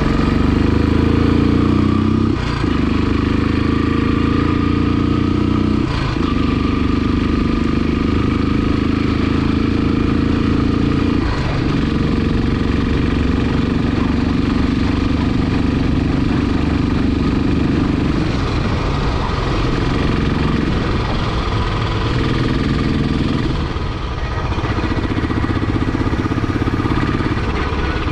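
Royal Enfield Classic 500's 499 cc single-cylinder engine running under a rider, heard onboard. The note breaks briefly three times in the first twelve seconds, then rises and falls with the throttle in the second half.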